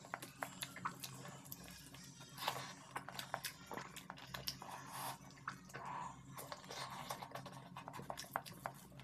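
Close-miked eating sounds of rice and egg curry eaten by hand: wet chewing and lip smacks with many small clicks, mixed with the soft squish of fingers working rice and gravy on a steel plate.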